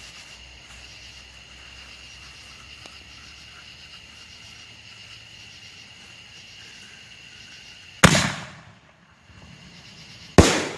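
Fireworks going off: two loud bangs about two and a half seconds apart, the first trailing off in a short rumble, over a faint steady high-pitched drone.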